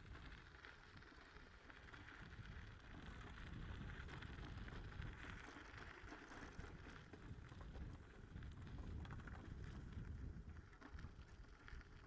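Faint wind rumble on the microphone with light, scattered crackles and rustles.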